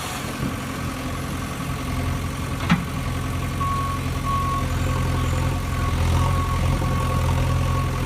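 An engine idling steadily, with one sharp click about a third of the way in.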